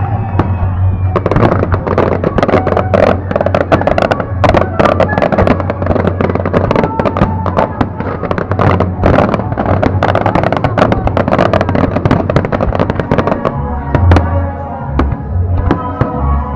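Fireworks bursting and crackling in rapid, dense succession over loud music.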